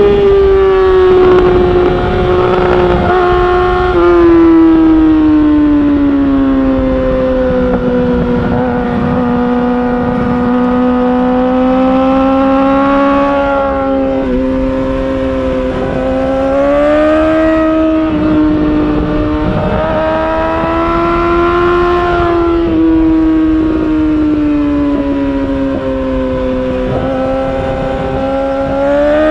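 2019 Yamaha R6's inline-four engine through an Akrapovic Evolution titanium exhaust, heard from the rider's seat on the move, its pitch sinking slowly and rising again with the throttle, with a few sudden steps in pitch as it changes gear.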